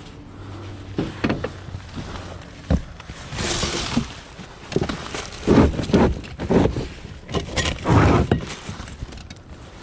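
Irregular knocks, thuds and scraping as junk is handled and shifted while rummaging through a pile of discarded items, with a cluster of heavier knocks in the second half.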